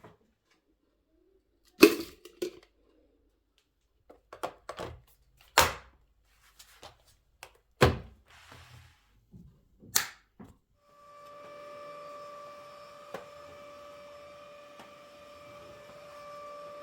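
A series of sharp knocks and clicks from objects being handled and set down, then a steady electric hum with a clear tone that starts about eleven seconds in, as of a small household appliance switched on.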